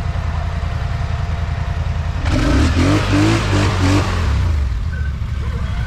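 ATV engine idling, revved in a few quick throttle blips a little over two seconds in, then settling back to idle.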